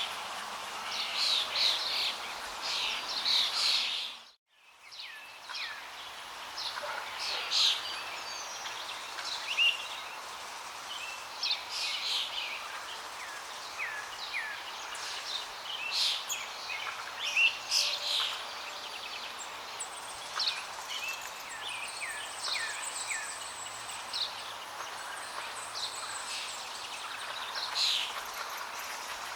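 Many small birds chirping and twittering over a steady rush of flowing water. About four seconds in, the sound cuts out for under a second and then fades back in.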